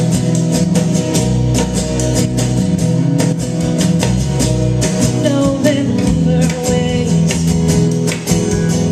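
A band playing a guitar-driven rock song, with bass, guitar and a steady drum beat, during a stretch without sung lyrics.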